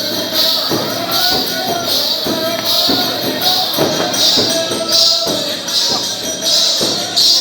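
Chang frame drums played in a steady rhythm for Falgun gair music, with a bright metallic clash on the beat about every 0.7 seconds and a held, wavering melody line over the drumming.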